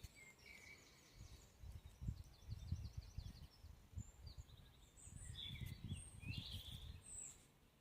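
Faint birdsong, short high trills and chirps in two spells, with soft low thumps scattered underneath.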